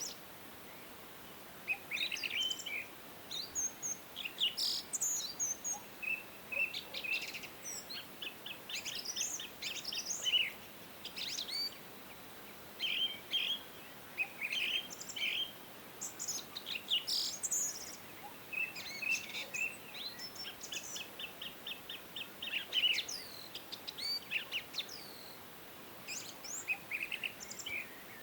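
Several small songbirds singing and chirping: overlapping short whistled notes, quick trills and rapid chirp series, over a faint steady background hiss.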